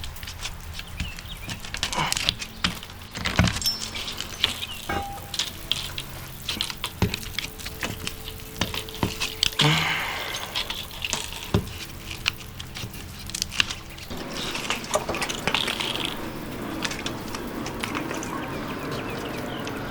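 Irregular taps, knocks and light metallic clinks over a steady hiss.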